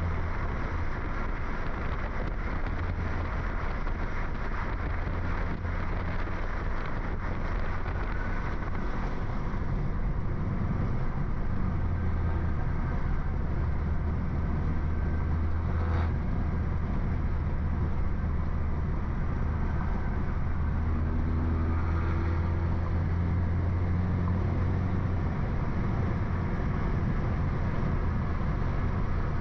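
Exhaust drone of a Stage 2 tuned BMW F30 328i with a turbocharged four-cylinder, downpipe and straight-piped exhaust, cruising at a steady, low, even pitch.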